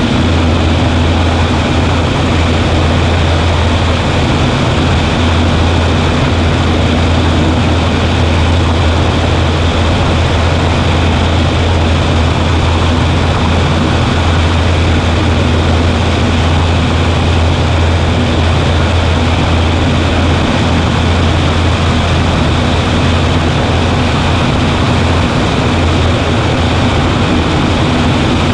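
Cessna 140A's piston engine and propeller running steadily in flight, a loud, even drone with a strong low hum that does not change.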